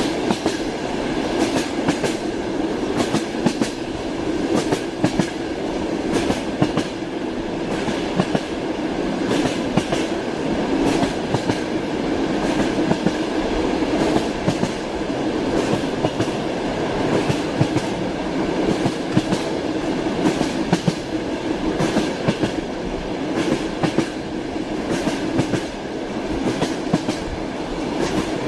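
Train wheels clattering over rail joints: a steady rolling rumble with frequent sharp clacks at irregular spacing.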